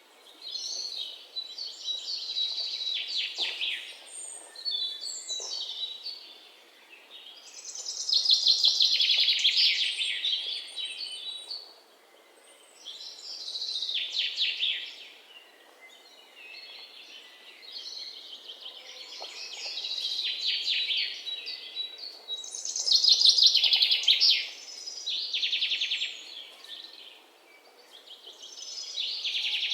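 Birdsong: repeated trilled phrases a few seconds long, with short pauses between them.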